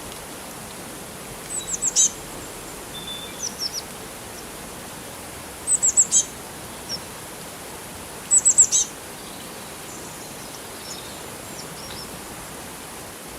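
Small birds chirping: three quick runs of three or four high, falling notes about three seconds apart, with softer scattered calls between. A steady hiss of flowing water runs beneath.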